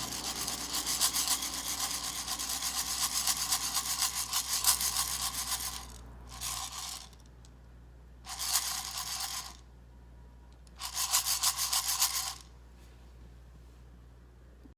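Roasted coffee beans rattling and rubbing together as they are shaken: a dense, rapid rasping for about six seconds, then three shorter bursts of shaking.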